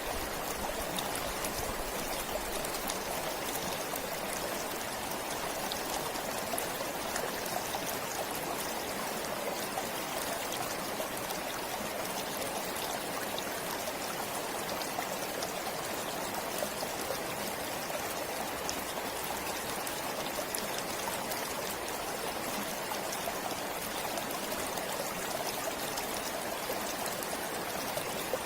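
A forest stream flowing steadily, water running and trickling with a constant fine splashing.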